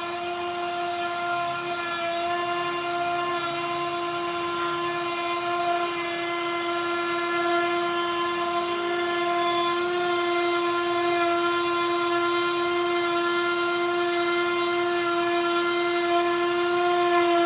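Electric power sander running steadily on wood, its motor giving a constant high hum.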